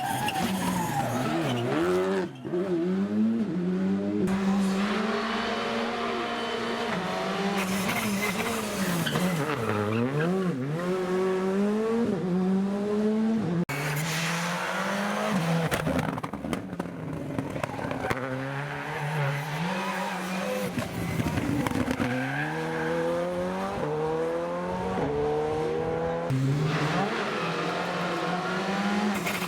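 Rally cars at full speed on an asphalt special stage: engines revving hard, pitch climbing and dropping through quick gear changes and lifts for corners. Several separate passes follow one another, each breaking off abruptly.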